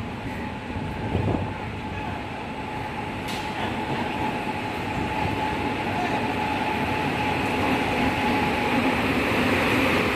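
A train running in along the station tracks, its rumble growing steadily louder, with a steady whining tone over it.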